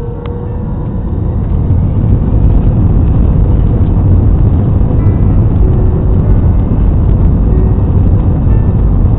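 Airliner cabin noise: a loud low rumble of the aircraft's engines and airflow that swells over the first two seconds, then holds steady.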